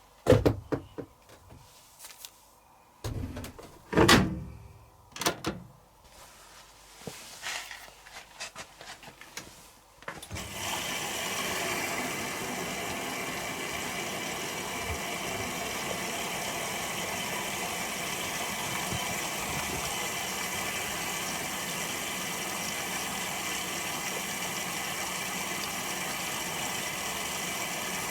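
Candy Aquamatic 100F washing machine being set and started: a few clicks and knocks, the loudest about four seconds in. About ten seconds in, a steady rushing sound starts and holds, the machine taking in water at the start of the Rapid 32' cycle.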